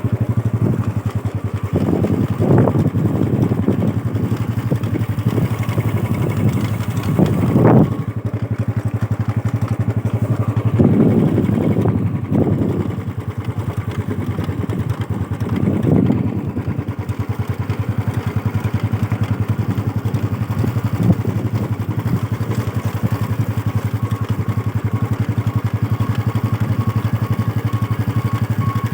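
An engine running steadily close by with a fast, even throb, swelling louder a few times.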